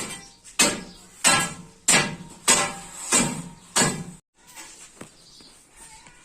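Hammer blows on hard material, struck at a steady pace of about one every 0.6 s, seven in all, stopping about four seconds in.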